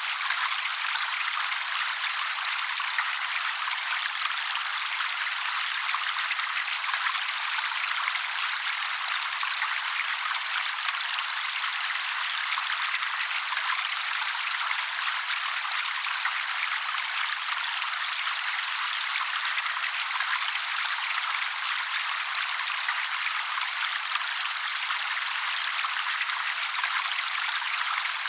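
Steady trickling, splashing water, an even hiss with no low end, used as a water-sound therapy track.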